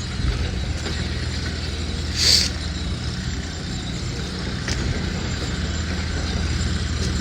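An engine idling steadily with a low hum. About two seconds in there is a short hiss.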